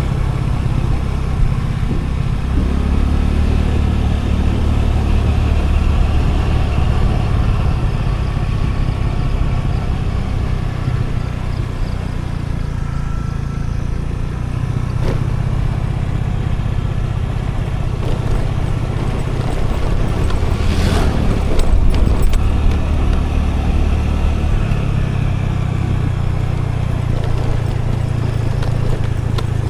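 Scooter engine running on the move with road and wind noise, its pitch shifting up and down several times as the speed changes. A brief louder rush about two-thirds of the way in.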